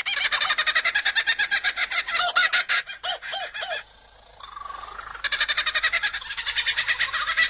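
Male lyrebird singing a string of mimicked bird calls: fast runs of repeated chirping notes, a short break about four seconds in, a rising whistle, then another rapid run.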